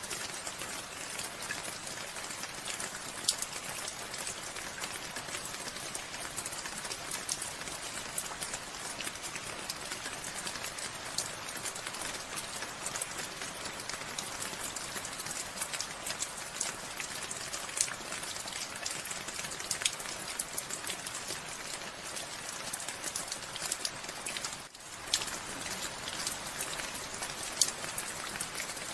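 Steady rain falling, many distinct drop hits ticking over an even hiss. The sound dips briefly about 25 seconds in.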